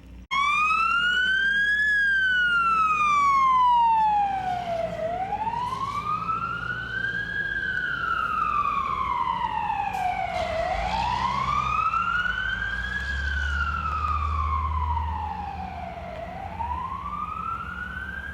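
Emergency vehicle siren on a slow wail, its pitch rising and falling in long sweeps of a few seconds each, with a low rumble underneath in the latter half.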